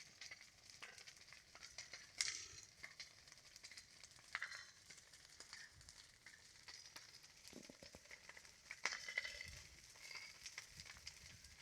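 Campfire burning faintly, wood crackling with scattered small pops and a soft hiss, and a couple of louder pops about two seconds in and near nine seconds.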